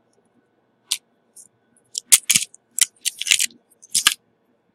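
Small tools clicking and clattering against a hard work surface: a scattered run of short, sharp taps, one about a second in, then a quick cluster from about two to three and a half seconds and a last one near four seconds.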